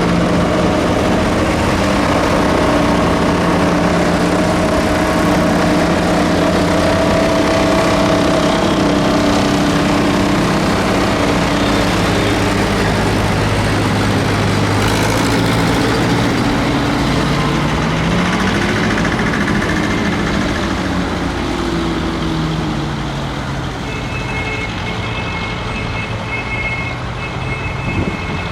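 Tractor engines running steadily, one of them rising and then falling in pitch about two-thirds of the way through. A steady high whine comes in near the end.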